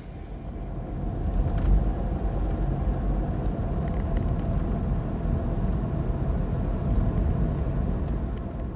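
A car driving along a road: a low, steady rumble that builds over the first two seconds and then holds.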